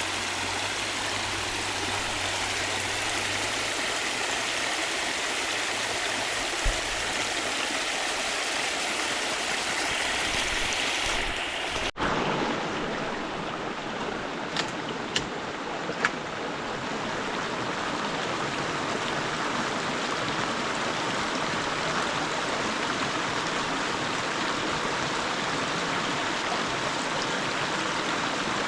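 Steady rush of flowing river water. The sound changes abruptly about twelve seconds in, and a few short sharp knocks follow soon after.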